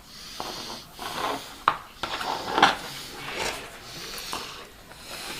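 Scraping and rubbing of hard objects being handled, with a few sharp clicks and knocks.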